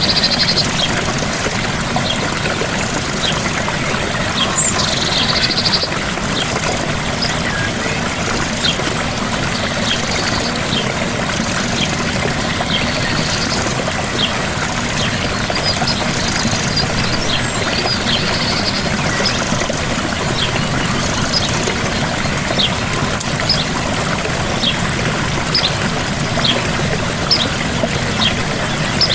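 Gentle waterfall: water pouring and splashing steadily, with short high chirps scattered over it throughout.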